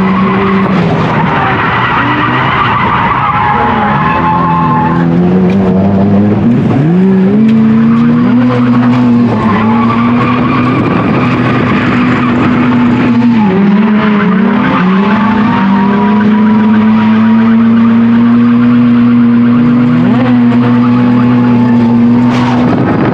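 Mazda FC RX-7's naturally aspirated 13B rotary engine held at high revs through a drift, dipping and climbing back a few times, with the tires skidding and squealing.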